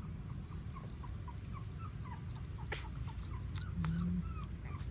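Young puppies squeaking in many short, high chirps, with a sharp click about three seconds in.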